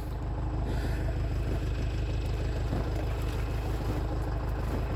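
International Harvester TD8E crawler bulldozer's diesel engine running steadily at an even, low note.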